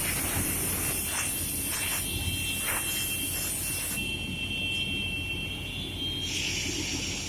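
Holzma panel saw running with a steady hum, a long high hiss through the first half, a few sharp knocks early on, and another hiss near the end.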